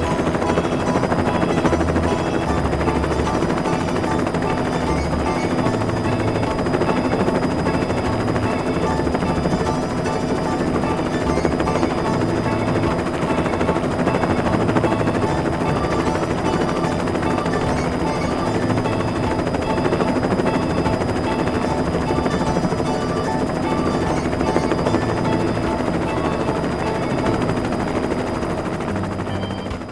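Helicopter rotor chopping steadily, a sound effect with a music track and its regular beat underneath, stopping abruptly at the end.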